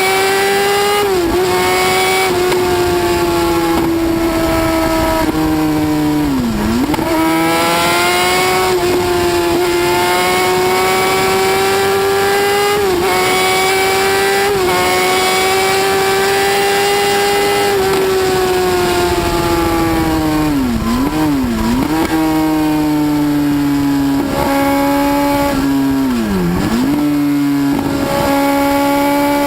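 A motorcycle engine held at very high revs in a steady, high-pitched whine. Its pitch dips sharply and climbs straight back several times.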